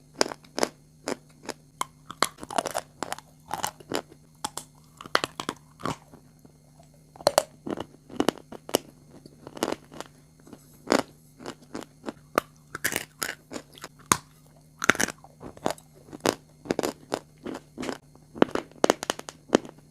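Close-up chewing of crunchy food: a run of sharp, irregular crunches, some in quick clusters.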